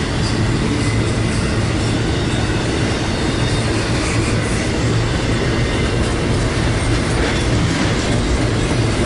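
Freight train rolling past at close range: a steady rumble with wheels clattering over the rail joints.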